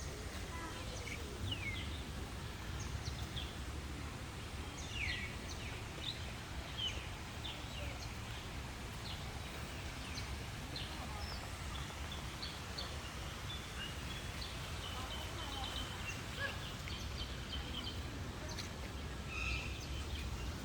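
Birds calling with many short, quick chirps that drop in pitch, scattered throughout, over a steady low rumble.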